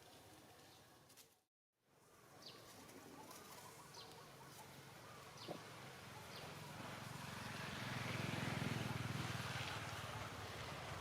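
Outdoor ambience: a motor vehicle's engine grows louder, is loudest about eight seconds in, then eases off, as if passing. Short high chirps sound several times during the first half.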